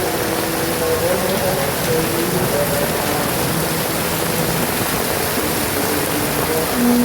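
Heavy rain falling steadily. Underneath are faint held notes that step from one pitch to another.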